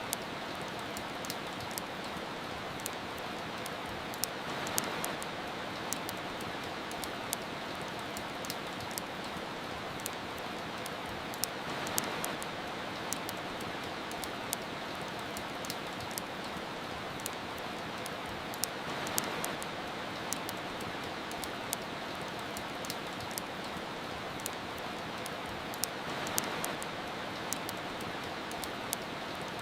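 Steady soft rain with a fireplace crackling over it, many sharp little pops and snaps scattered throughout. A brief swell in the rain noise returns about every seven seconds.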